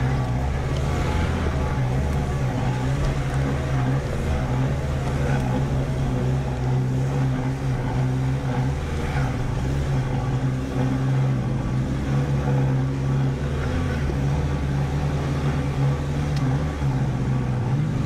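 A Holden Colorado 4WD ute driving, its engine giving a steady low drone with no revving or stops.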